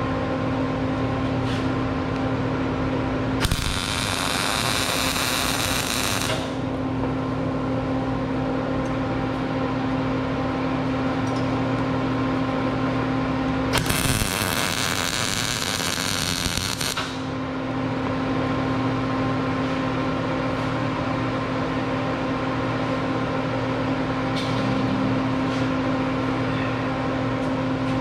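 Electric arc welding: two short welds of about three seconds each, one early and one near the middle, each a loud hiss, over a steady electrical hum.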